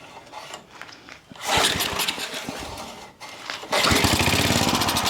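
Old Craftsman tiller's Briggs & Stratton small engine firing on gas primed into the carburetor: it fires for a second or so about a second and a half in, dips, then catches again from about four seconds in and runs louder and steadier.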